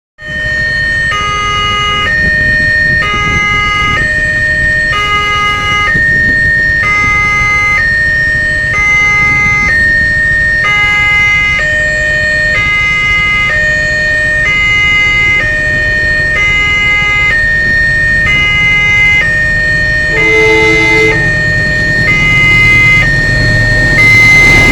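Railway level-crossing warning alarm: an electronic two-tone signal switching back and forth in a steady repeating pattern, sounding while the crossing is closed for an approaching train. Low traffic rumble runs underneath, and a different short tone cuts in about 20 seconds in.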